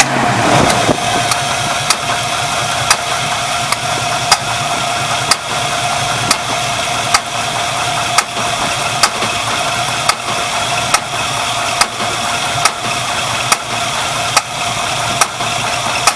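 Pontiac 455 V8 idling with a sharp pop about once a second, the abnormal noise that a carburetor swap has not cured; the owner thinks it sounds like a misfire. The revs fall back just at the start.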